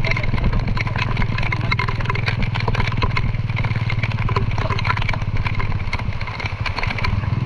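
A small engine running steadily at an even speed, with a low hum and rapid clatter.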